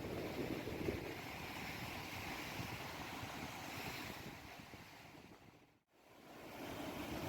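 Sea waves with wind buffeting the microphone, a steady rushing noise that fades out almost six seconds in and then fades back up.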